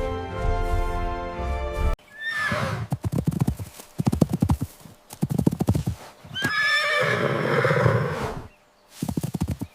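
Music stops abruptly about two seconds in. A horse then whinnies, hooves clatter in quick beats, and a second, longer whinny follows.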